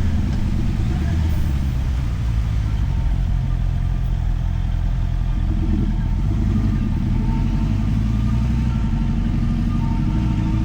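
Motorcycle engine running at low, fairly steady revs while riding. The revs drop just as it begins, then hold. Tyres on wet road and wind on the helmet camera add a steady hiss.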